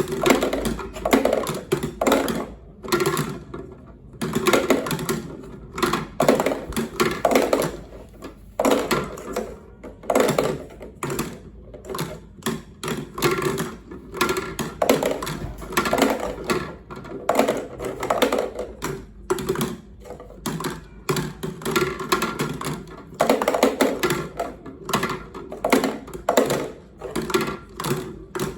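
Marbles rolling and clattering down a wooden HABA marble run, with many quick, irregular clicks and clacks as they hit the track pieces.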